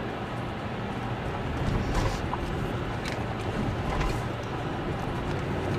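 Steady low rumble of a vehicle in motion, with a few sharp knocks about two, three and four seconds in.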